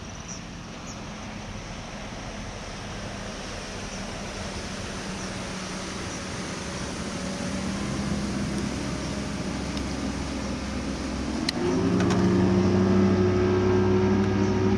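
Outboard motor of a bass boat running on the lake, a steady engine hum that grows louder as it comes closer. About eleven and a half seconds in it turns suddenly louder and a little higher.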